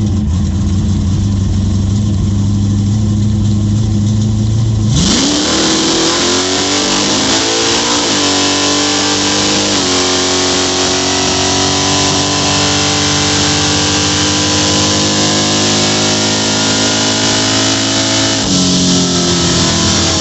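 Chevrolet S10 drag truck's engine held at a steady speed, then launching about five seconds in with a sharp rise in pitch. Two quick gear shifts follow, then it pulls steadily down the track before backing off near the end.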